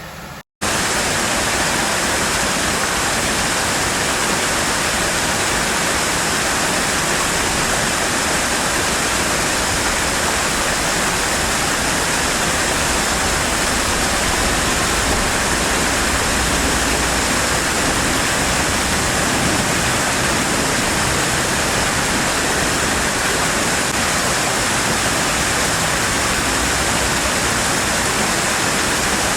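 Fast-flowing stream water rushing close by, a steady loud rush like a small waterfall, starting abruptly about half a second in.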